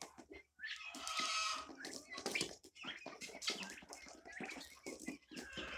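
Free-ranging poultry calling: harsh, repeated calls, loudest about a second in, then again near the end.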